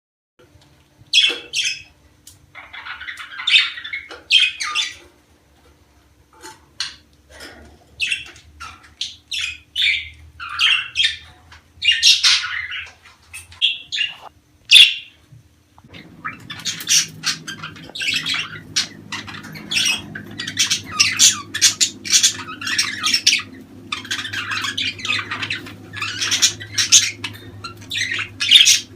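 Budgerigars chattering and squawking in quick, irregular calls after about a second of silence, becoming dense, almost continuous chatter from about halfway through.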